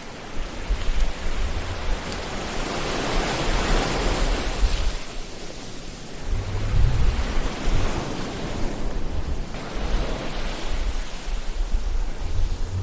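Ocean surf: waves break and wash back, swelling and falling away several times, over a low rumble.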